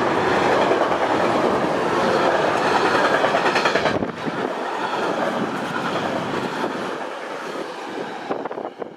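A train rolling past on the rails, its wheels clicking over the track. The noise is loud, drops off sharply about four seconds in, then fades away.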